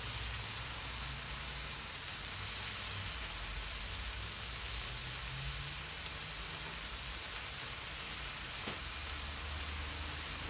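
Italian sausages and onions sizzling steadily on a Blackstone flat-top griddle.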